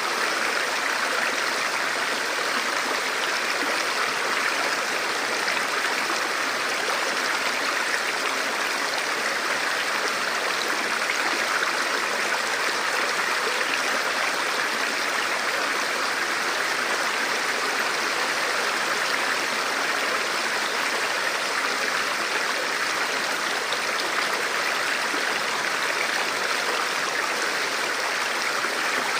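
Shallow forest river flowing over rocks: a steady rush of running water with no let-up.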